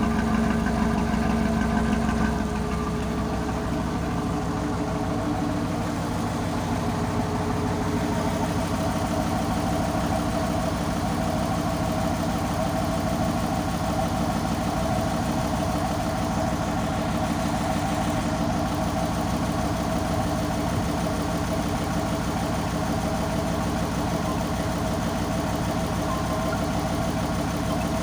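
Tugboat engine running steadily, its note dropping slightly about two seconds in.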